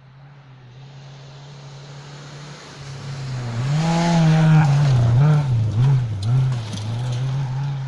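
Rally car coming closer flat out, its engine note growing louder, then passing close by with the pitch dropping and climbing several times as the driver lifts, blips and changes gear, before it moves away.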